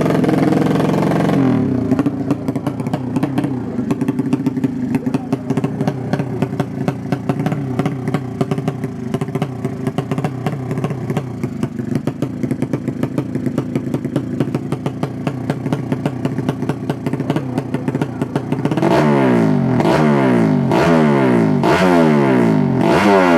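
Drag-race motorcycle engine idling with a rapid, uneven beat. From about three-quarters of the way in, the throttle is blipped over and over, roughly once a second, and the revs fall away after each blip.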